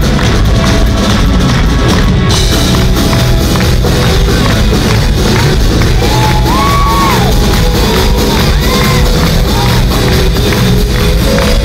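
Loud live rock band playing with a singer, and the crowd shouting and cheering along.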